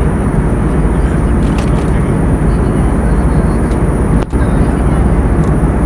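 Steady, loud rumbling noise of an airplane in flight. It drops out for an instant about four seconds in.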